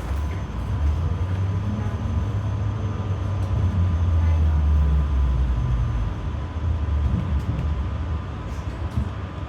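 GTZO tram running along its track, heard from aboard: a low rumble of wheels and drive that swells for a couple of seconds in the middle and then eases, with a faint steady whine over it.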